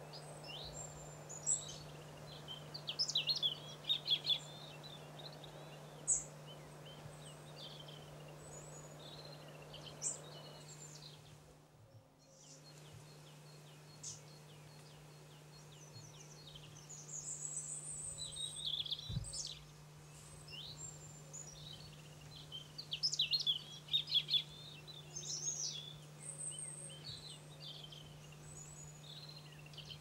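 Small birds chirping and twittering in short bouts, with a faint steady low hum underneath.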